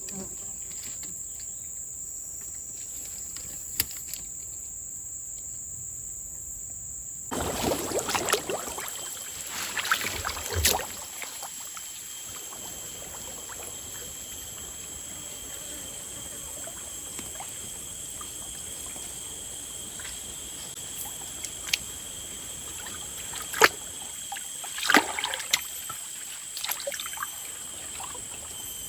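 Steady high-pitched drone of crickets or similar insects, with two spells of water splashing and sloshing, one at about 7 to 11 seconds in and another near 23 to 27 seconds in.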